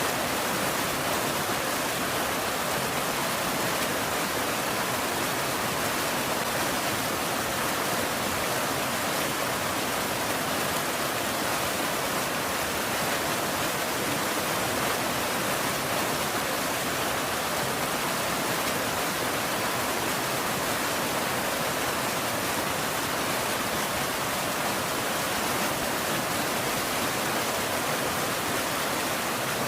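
Steady, dense rain hiss with no individual drops standing out and no thunder.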